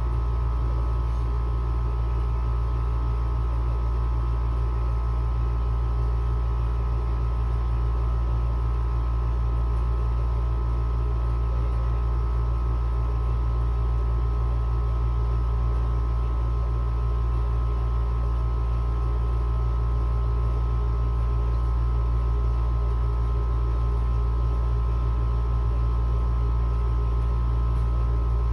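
Air conditioner running steadily, its compressor and fan giving a loud constant low hum with a fainter steady whine above it.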